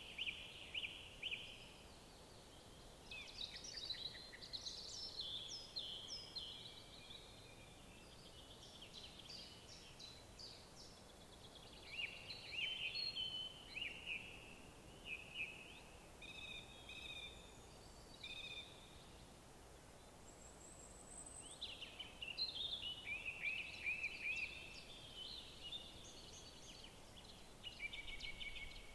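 Forest songbirds singing: a run of short phrases of quick, sharp notes and trills, one after another with brief gaps, over a faint steady background hiss.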